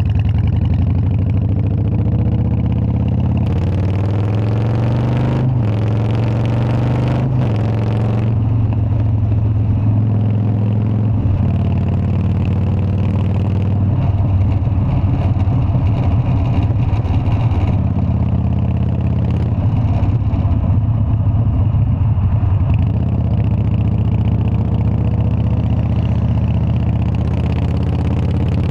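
Harley-Davidson Dyna's air-cooled V-twin engine running steadily, with a stretch of rising and shifting pitch and extra hiss between about four and eight seconds in.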